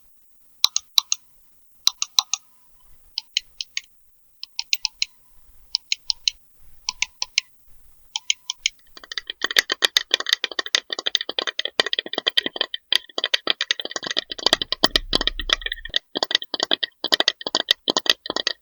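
Close-miked ASMR tapping: short bursts of quick taps about once a second, turning into dense, continuous fast tapping and rattling about nine seconds in.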